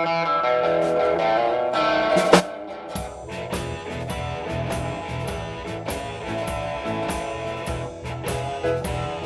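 Live blues-rock band playing a song's instrumental intro: electric guitar notes ring out alone, then drums and bass come in about three seconds in with a steady beat.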